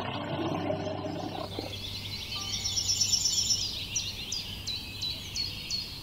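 Small birds chirping: a dense, high twittering that turns into a quick run of short, downward-sliding chirps, several a second.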